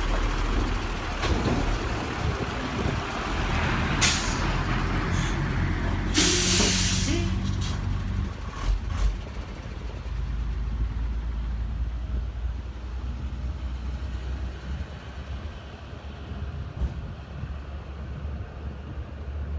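Heavy truck engine running low and steady, with a short hiss of air brakes about four seconds in and a longer, louder air hiss about six seconds in. The engine sound grows quieter after about eight seconds.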